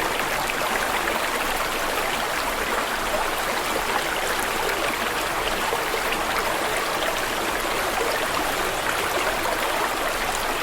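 Water flowing steadily in a stream, a constant even rush with fine splashing and no breaks.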